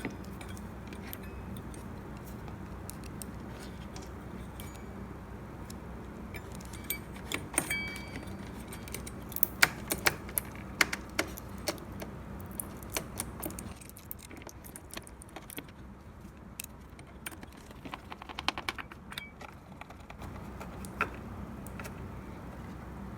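Light, scattered clicks and clatters of small metal and plastic parts being handled and fitted back into a Breville 870 espresso machine during reassembly, most of them in the first half with another cluster later, over a steady low hum.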